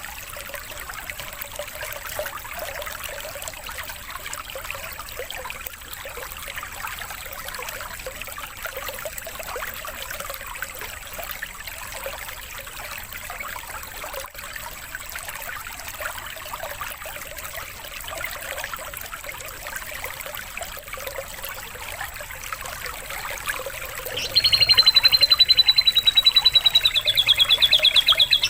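Water trickling steadily. About 24 seconds in, a loud, rapid bird trill near one high pitch breaks in over it and becomes the loudest sound.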